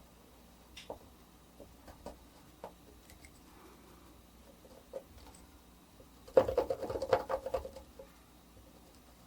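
Etching needle working on a copper etching plate: scattered light ticks and scratches, then a dense run of rapid clicks and scrapes lasting about a second and a half, about six seconds in, the loudest part.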